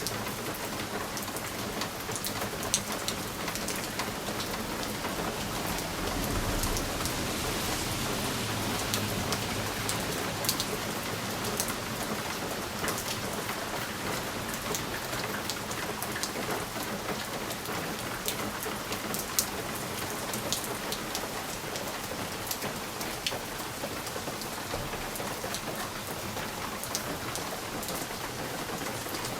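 Steady rain against a window pane, with sharp drop taps scattered through it. A low rumble swells about six seconds in and fades away over the next few seconds.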